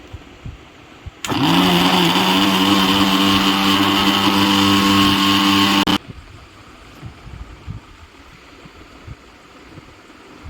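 Electric mixer grinder motor spinning up and running at full speed for about five seconds, then stopping suddenly.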